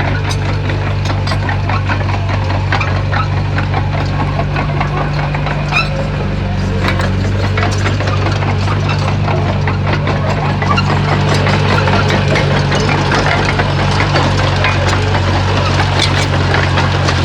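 Komatsu bulldozer's diesel engine running steadily, with frequent sharp clanks and knocks over it.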